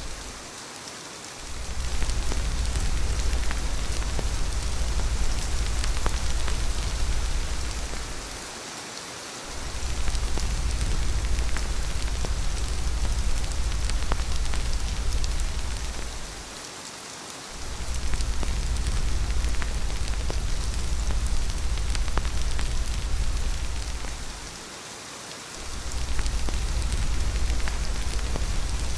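Steady rain, a dense hiss of drops with fine ticks through it. A deep low rumble sits underneath and fades out for about a second roughly every eight seconds, four times over.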